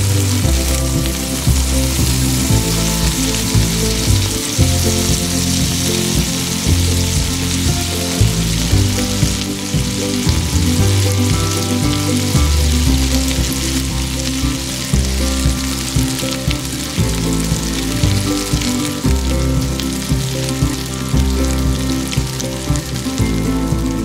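Sliced vegetables sizzling on a small charcoal grill, a steady hiss, under background music with a slow-moving bass line.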